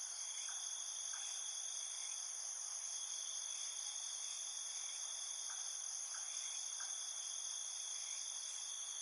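Steady chorus of insects trilling in high, unbroken tones, with faint short chirps scattered every half second or so.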